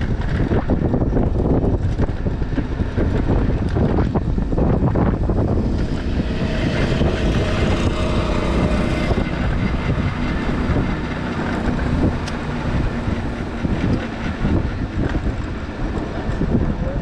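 Wind buffeting the microphone while riding an electric bike, a steady low rumble throughout. About six seconds in, a passing vehicle adds a brief rise that fades again by about nine seconds.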